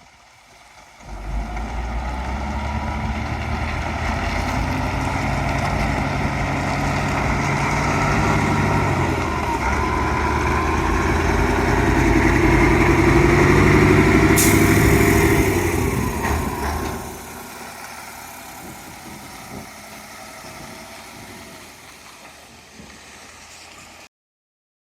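Diesel engine of a laden low loader truck pulling away, rising in pitch as it gathers speed, with a short sharp air hiss about halfway through. It then drops away to a quieter running sound and cuts off suddenly near the end.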